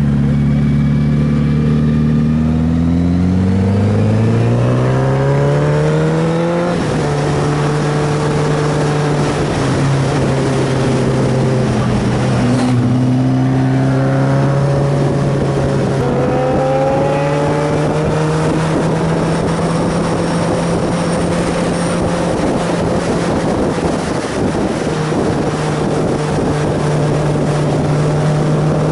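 Sport motorcycle's inline-four engine accelerating under way, its pitch rising and then dropping at a gear change about seven seconds in, dipping and climbing again around twelve seconds, then holding a steady speed. A constant rush of wind noise runs underneath.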